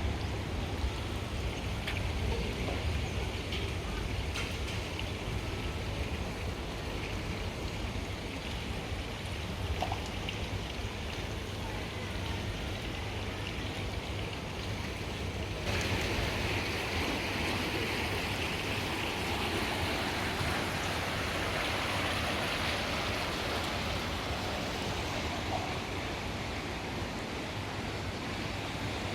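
Steady rushing, churning water over a low rumble. About halfway through the sound changes abruptly to a hissier rush of water.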